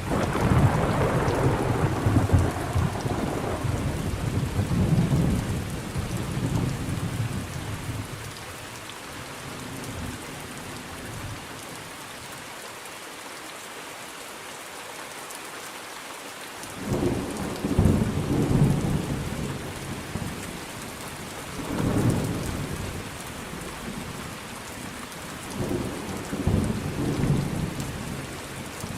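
Steady rain with rolling thunder: a long roll of thunder at the start dies away over about eight seconds, leaving only the rain, then three shorter rumbles of thunder come in the second half.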